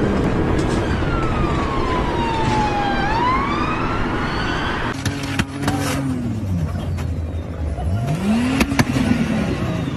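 Car road noise with a wailing tone that slides slowly down and then back up. About halfway through it gives way to a low tone that rises and falls twice, like an engine revving up and down.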